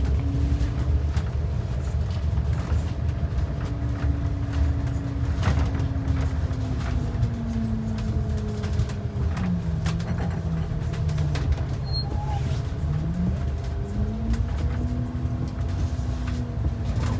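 Inside a moving transit bus: low engine and road rumble with a droning tone that drops in pitch about nine seconds in and climbs again a few seconds later, with scattered rattles and knocks.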